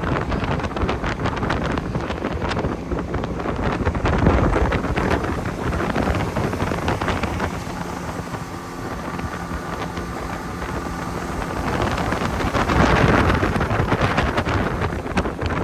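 Motorboat under way with heavy wind buffeting the microphone. The steady drone of the outboard engine shows through in the middle as the wind eases, then the gusts swell again.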